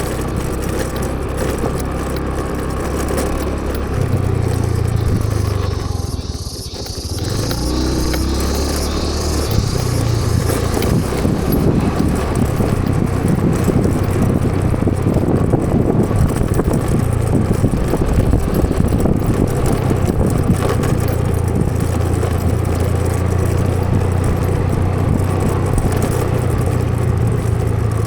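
Motor vehicle engine running steadily on the move, a low hum under road and wind noise, dipping briefly about six seconds in before carrying on.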